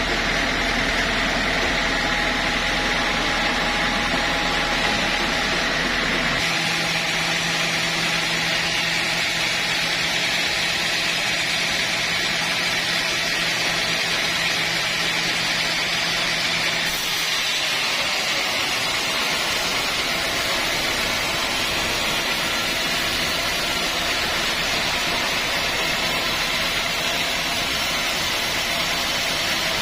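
Sawmill machinery running steadily with a loud, even noise; a low hum drops out about six seconds in, and another steady tone stops about halfway through.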